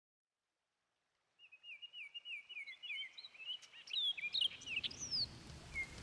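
Backyard songbirds calling: a run of quick descending chirps, about three a second, then assorted chirps and short whistled notes. A low rumble rises underneath from about four seconds in.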